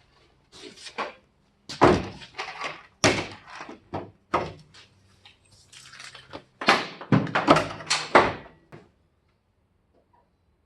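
A run of irregular clunks, knocks and scrapes from hands-on work on the truck's body, dying away about nine seconds in.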